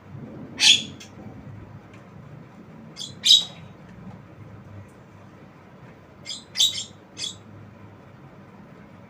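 Javan myna calling in short, sharp, high notes: one just under a second in, a pair around three seconds, and a quick run of three around six to seven seconds.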